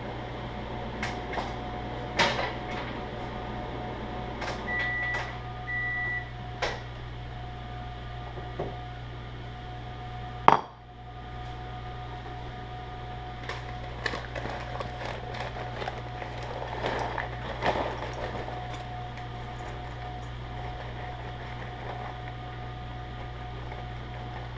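Microwave oven running with a steady hum while popcorn kernels on the cob pop in scattered sharp bursts, more thickly in places. Two short beeps sound about five seconds in, and there is one loud sharp crack near the middle.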